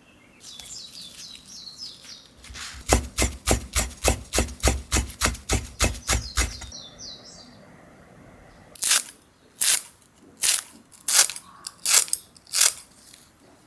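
Knife chopping on a cutting board: a quick, even run of about four cuts a second with dull knocks on the board, then after a pause six slower, separate cuts.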